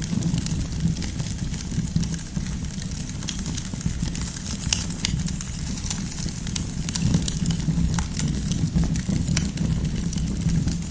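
Wood campfire burning with a steady low rumble of flame and frequent irregular crackles and pops from the firewood.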